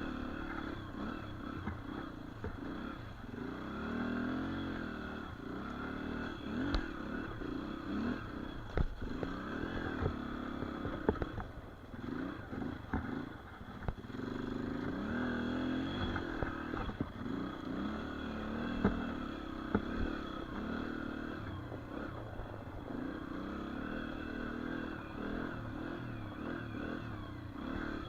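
Dirt bike engine running and revving up and down as it is ridden, with a few sharp knocks and some clatter along the way.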